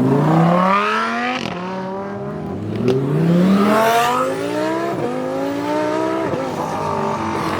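A car engine accelerating hard, its pitch climbing and dropping back several times as it shifts up through the gears.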